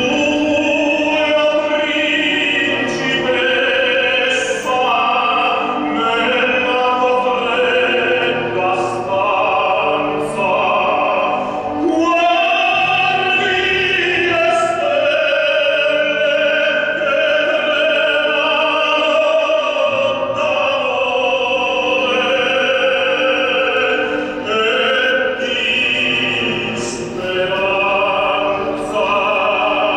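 Classical vocal music: an operatic voice sings long, held notes with vibrato.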